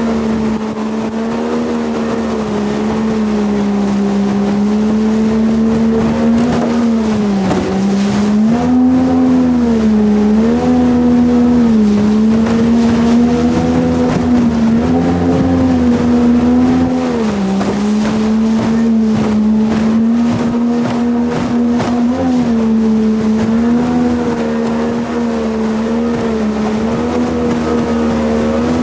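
Jet boat engine running hard under way, its pitch dipping and climbing back every few seconds as the throttle is eased and reopened.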